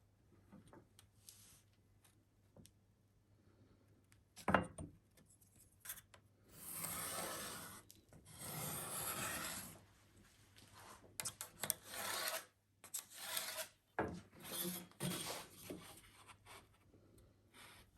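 Wood being smoothed by hand with an abrasive tool: a single knock, then two long scraping strokes followed by a run of shorter, quicker strokes.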